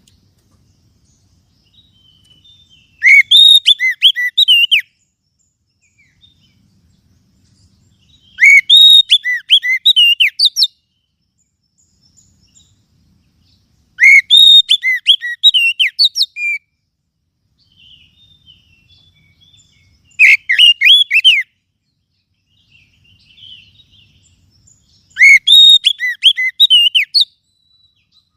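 Oriental magpie-robin (kacer) singing. It gives five loud bursts of rapid, sweeping whistled notes, each about two seconds long and spaced roughly five to six seconds apart, with faint chirps between the bursts.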